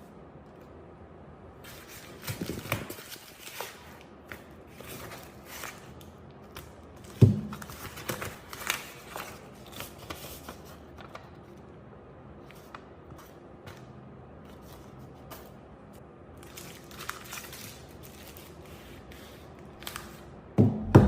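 Scattered small clicks, taps and crackles of hard objects being handled on a work surface, with one sharper knock about seven seconds in.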